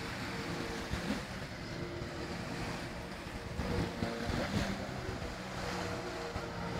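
Personal watercraft (jet ski) engine running at a steady pitch, with rushing water and wind buffeting the microphone.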